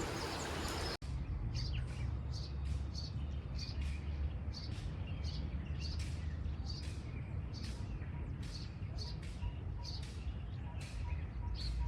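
A bird chirping over and over, short high chirps about two a second, over a low outdoor rumble. The first second is an even rushing hiss that cuts off abruptly.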